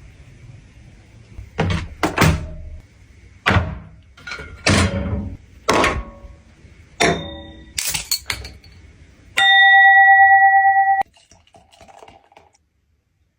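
A run of sharp knocks and clunks, each with a short ringing tail, then a loud steady electronic beep lasting about a second and a half that cuts off suddenly.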